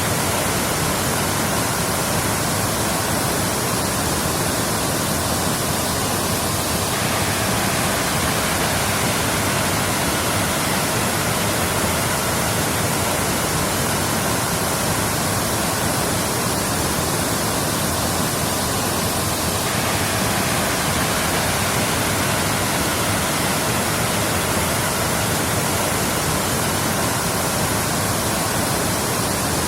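Waterfall rushing steadily, an even wash of falling water with a slight change in tone about seven seconds in and again near twenty seconds.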